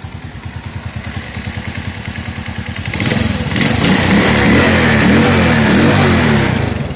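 110 cc motorcycle engine idling with an even pulse, then revved up about three seconds in and held at higher revs for about three seconds before dropping back toward idle.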